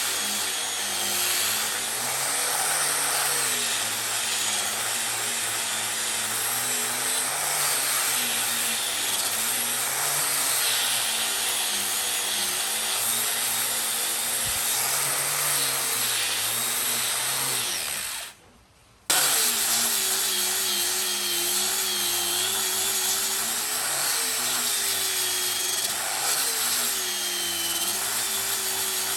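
An electric power tool working wood, its motor pitch dipping and recovering again and again as it bites into the wood. A little past halfway the motor winds down and the sound drops out for about a second, then it comes back at full speed.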